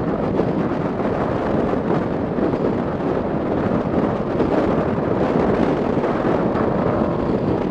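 Motorcycle riding at speed, with wind buffeting the rider's microphone over the engine.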